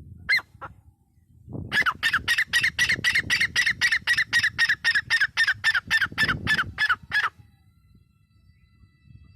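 Grey francolin calling: two short notes, then a fast, even run of loud repeated notes, about four a second, each dipping in pitch. The run lasts five to six seconds and then stops abruptly, with a low rumble underneath.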